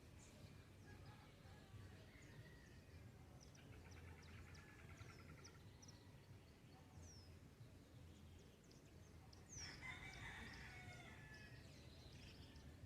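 A faint, distant rooster crowing twice: a weaker crow about four seconds in and a louder one near ten seconds. Small birds make scattered short high chirps throughout.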